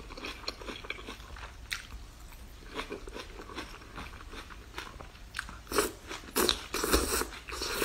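Close-miked eating: wet chewing and sucking as a long strand of cooked leafy greens is drawn into the mouth, with small crunchy clicks throughout. The sucking and crunching grow louder in the last two seconds.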